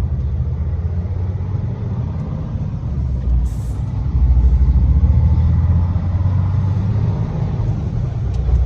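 Car in motion heard from inside: a steady low rumble of engine and road noise, growing louder about halfway through.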